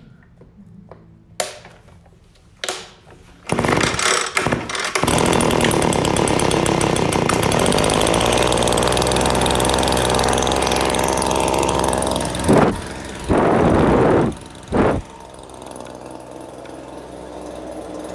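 Echo PB-2620 handheld leaf blower's two-stroke engine on a cold start: after two sharp knocks it catches about three and a half seconds in, stumbles briefly, then runs steadily. Near the end it is throttled up in three short bursts, then drops back to a quieter idle.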